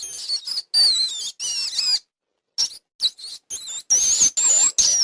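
Rat squeaking: a rapid string of short, high-pitched squeaks, some wavering in pitch, with a brief pause about two seconds in.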